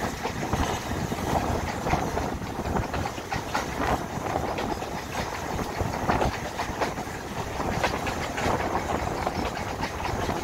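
Railway passenger coach running along the track, wheels clattering over rail joints and rumbling on the rails, heard from an open carriage window.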